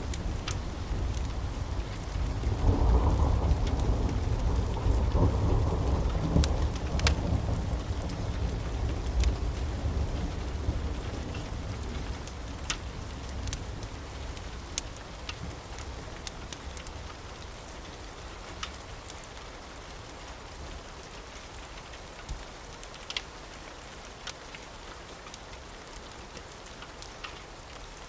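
A long roll of thunder builds about three seconds in and fades away slowly over the next ten seconds, over steady rain. Sharp pops from a crackling wood fire are scattered throughout.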